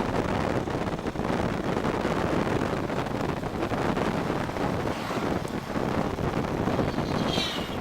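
Wind rushing and buffeting over the microphone on a moving Bajaj Pulsar 150 motorcycle, a steady ride noise with the bike's running mixed in. A brief higher-pitched sound comes near the end.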